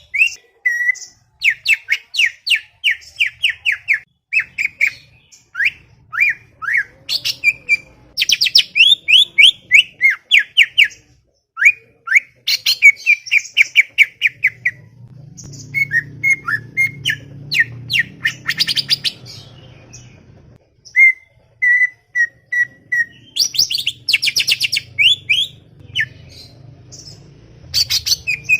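Greater green leafbird (cucak ijo) singing a loud, chattering song: rapid runs of short, sharp sweeping notes in bursts of a second or two, broken by brief pauses, with a few evenly repeated single notes a little after the middle.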